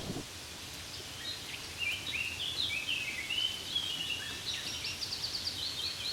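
Soft steady rain hiss, with a small songbird singing a run of quick chirping notes from about a second in.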